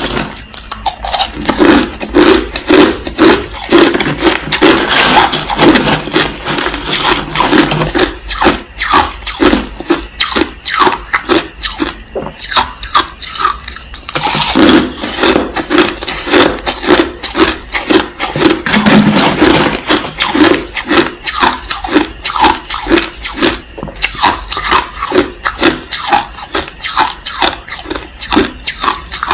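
Crushed ice being bitten and chewed close to the microphone: rapid, loud crunches, several a second, with brief lulls about twelve and twenty-four seconds in.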